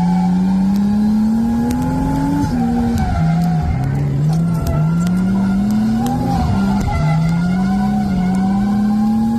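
RB25DET straight-six in a Nissan 240SX drift car, heard from inside the cabin, revs climbing for a second or two and then dropping sharply, over and over, as the car drifts.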